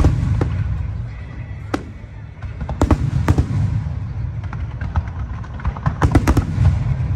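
Fireworks display: aerial shells bursting with sharp bangs, a few apart and then several in quick succession about six seconds in, over a steady low rumble.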